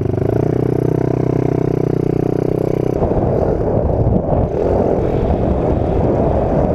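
Engine running with a steady hum. About three seconds in, the hum gives way to a rougher, noisier sound.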